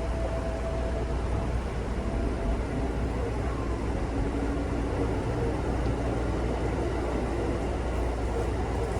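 Local electric train running between stations, heard from inside the car: a steady rumble of wheels on rail and running noise, with faint humming tones that come and go.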